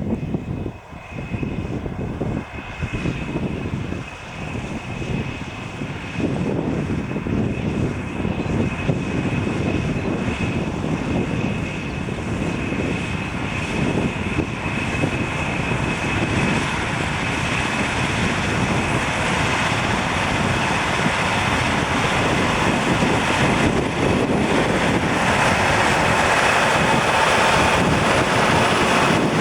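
John Deere 9570RT crawler tractor's diesel engine running under heavy load, pulling a Horsch Tiger cultivator, with a steady high whine over the engine noise. It grows steadily louder through the second half.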